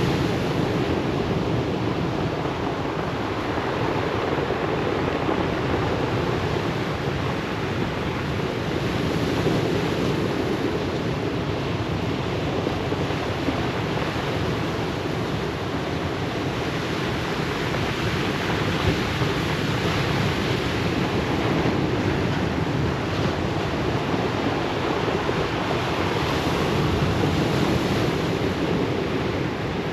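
Ocean surf breaking and washing up a pebble beach, a steady dense rush that swells gently several times.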